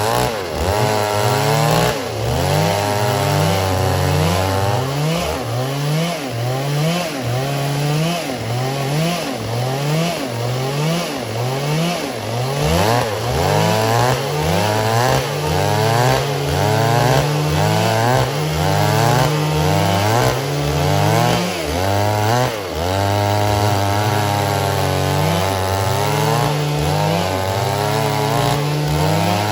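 Stihl MS 382 two-stroke chainsaw running hard, its engine pitch rising and dropping again and again, about once a second, as it works through wood.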